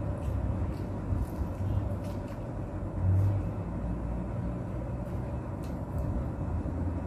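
A person chewing thin flatbread with the mouth closed: faint soft mouth clicks over a steady low rumble that swells briefly about three seconds in.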